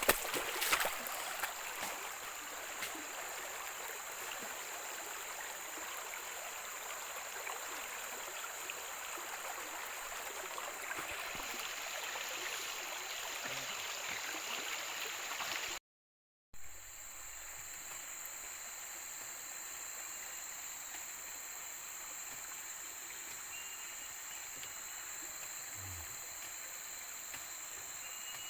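Steady rush of running water under a high, steady insect drone. After a brief break about 16 seconds in, the water sound drops away and a quieter, even insect chorus of crickets or cicadas carries on.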